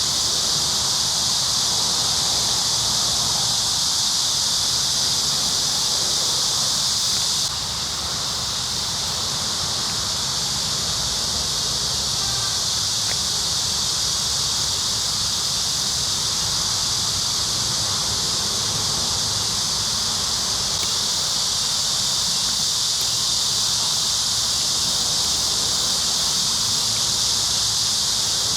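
Steady, loud, high-pitched drone of a summer insect chorus, with a slight sudden drop in level about seven and a half seconds in.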